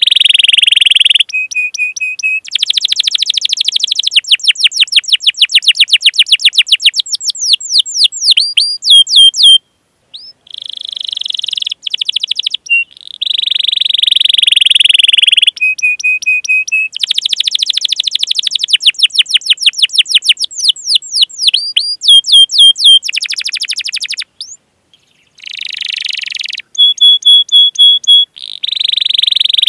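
Domestic canary singing a long song: buzzy held notes alternate with fast rolling trills of rapid falling sweeps, with brief pauses about ten and twenty-five seconds in.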